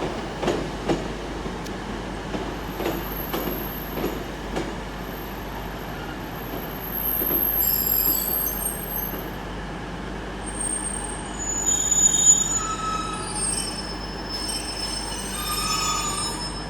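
Pair of coupled Class 150 diesel multiple units pulling out over a steady low rumble. The wheels click over rail joints in the first few seconds, then squeal in high tones, with several shifting squeals in the second half.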